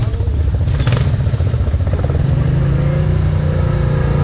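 Off-road vehicle engine running steadily at a low, even speed, with a brief crackle about a second in.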